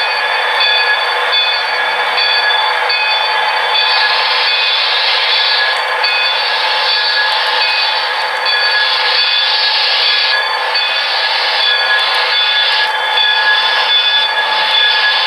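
Model train running on the layout, its onboard sound decoder playing locomotive sounds through a small tinny speaker: a steady drone of several held tones over a rushing noise that swells now and then.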